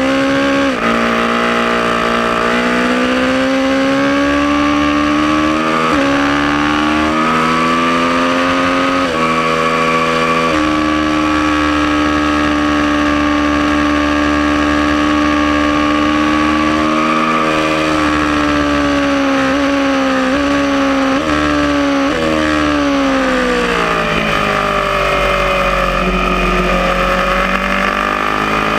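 Aprilia Tuono motorcycle engine at full track pace: revs climb and drop back at upshifts about a second in, and again around six and nine seconds in. The revs then hold nearly steady for several seconds. Several quick downshifts follow under braking, the revs sag low through a slow stretch, and they pick up again near the end, with steady wind rush throughout.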